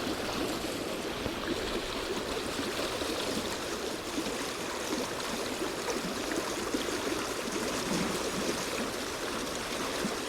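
Stream water running over its bed in a steady, even rush.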